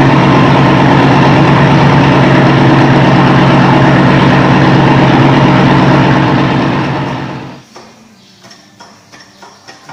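Tatra engine, just started, running loud and steady at a fast idle, then fading out about seven seconds in; faint ticking follows.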